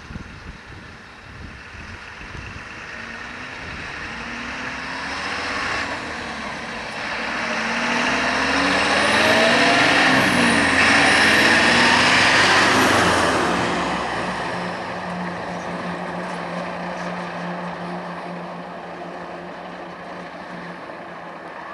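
A heavy truck drives past: its engine noise builds, peaks about ten seconds in with the pitch dropping as it goes by, and fades away, leaving a steady low engine hum.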